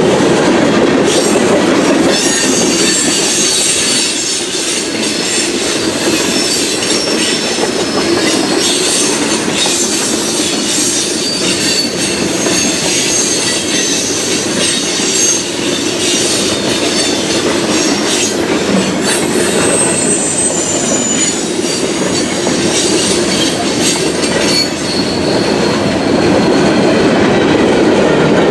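Norfolk Southern freight train rolling past: steady rumble of wheels on rail with repeated clicks of the wheels over rail joints and a high metallic wheel squeal, most noticeable about two-thirds of the way through.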